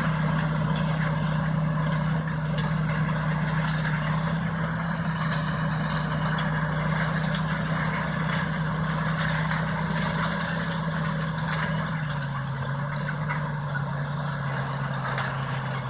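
John Deere 8530 tractor's six-cylinder diesel engine running steadily under load, pulling a Horsch CO9 air seeder; its pitch steps down once about twelve seconds in as the engine slows.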